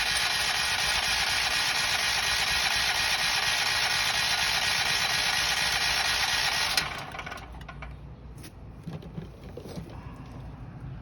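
The WEN generator's electric starter cranking the engine steadily without it catching, then stopping about seven seconds in, followed by light clatter. The carburetor is still empty of fuel after the fuel valve was turned on.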